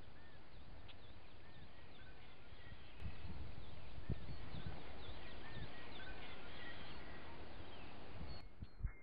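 Several birds chirping and calling in short, repeated notes over a steady rushing hiss that grows louder about three seconds in, with a few low thumps.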